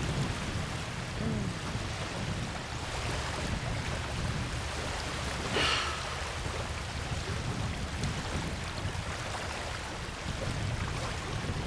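Small waves on Lake Ontario washing against the shore: a steady rushing, with one brief louder swish about five and a half seconds in.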